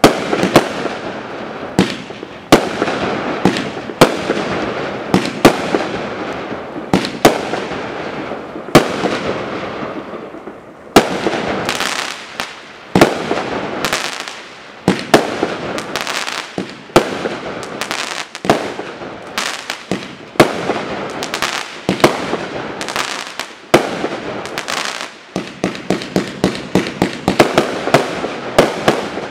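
Multi-shot firework cake firing: sharp bangs of shells launching and bursting about once a second, with a steady noisy crackle between them. Near the end the shots come as a rapid string of close pops.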